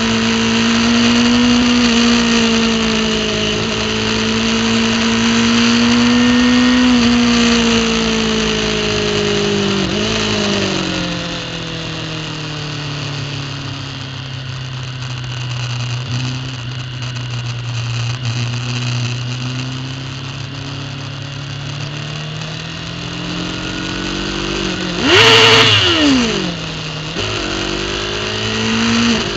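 Racing superbike engine heard from an onboard camera, holding steady revs, then dropping in pitch about ten seconds in. It runs lower and steadier for a long stretch, gives a sharp rev up and down with a loud burst around 25 seconds, and climbs again near the end, over a constant hiss of rushing air.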